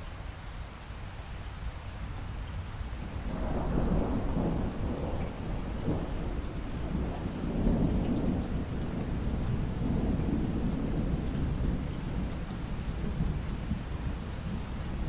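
Steady rain with a long rolling rumble of thunder that swells about three seconds in and slowly fades near the end.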